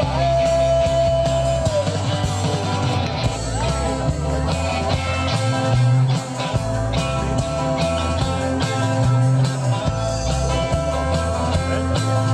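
Live rock band playing: bass and drums under a guitar, which holds one long note for about the first two seconds before it bends down, then carries on.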